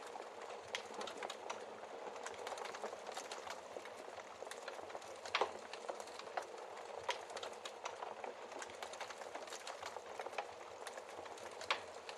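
Wood fire crackling in a fireplace: a steady hiss of burning with a constant scatter of small crackles and a few sharper pops, the loudest about five seconds in and another near the end.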